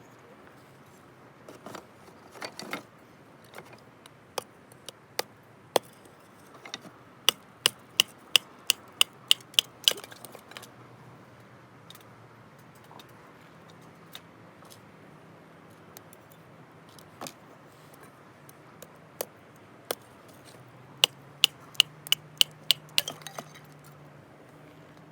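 Sharp clicks and snaps in quick runs of several a second, with quieter spells between, from bonfire cooking.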